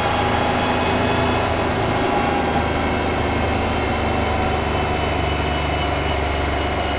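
Can-Am Spyder three-wheeled motorcycle's engine running steadily under way at cruising speed, with road and wind rush around it.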